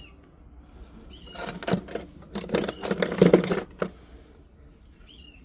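A quick run of light metallic clicks and clatters, about a second in until nearly four seconds in: a gold ring being handled and slid onto a ring mandrel.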